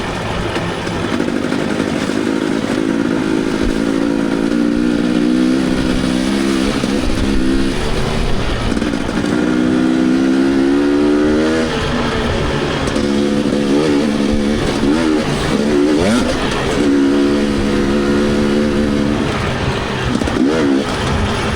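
Dirt bike engine running under load, its pitch climbing and then dropping several times as the rider accelerates and backs off.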